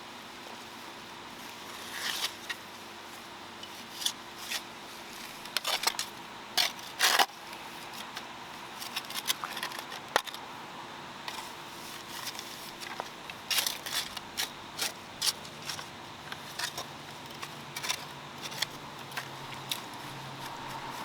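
Soil being scraped and pushed back into the hole around a newly installed sprinkler head: irregular scrapes and crunches of dirt, the loudest about seven seconds in.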